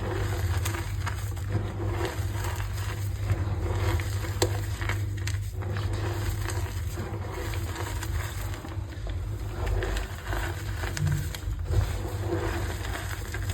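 Reformed gym chalk being crushed and crumbled by hand, a continuous run of small crisp cracks and crunches, over a steady low hum.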